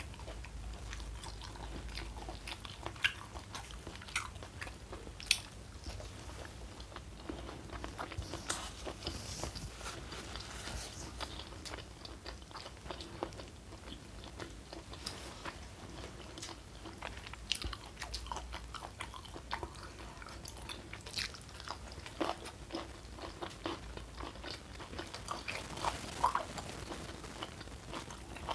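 Eating sounds: chewing and crunching of food, with sharp crisp bites now and then, a few of them louder than the rest.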